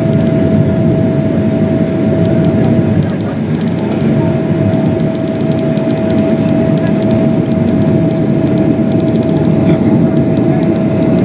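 Cabin noise inside a Boeing 777-200ER on approach with gear down and flaps set: a loud, steady rush of airflow and engine noise, with a steady whine held throughout.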